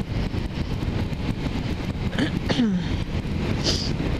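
Kawasaki Ninja 300 parallel-twin motorcycle running steadily at road speed, mixed with wind rushing over the camera's microphone.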